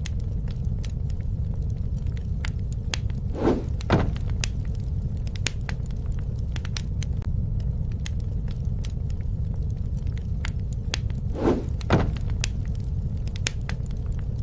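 Wood bonfire crackling, with frequent sharp pops over a steady low roar of the flames. Twice, a few seconds in and again about eight seconds later, comes a pair of short louder whooshes.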